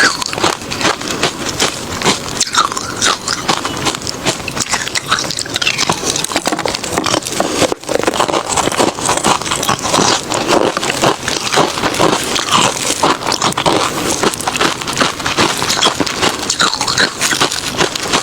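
Refrozen crushed ice being bitten and chewed close to the microphone: loud, dense, continuous crunching with a brief pause a little before halfway.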